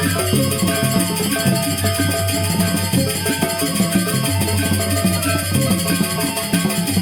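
Balinese geguntangan gamelan ensemble playing a fast, dense rhythmic passage over a sustained low tone.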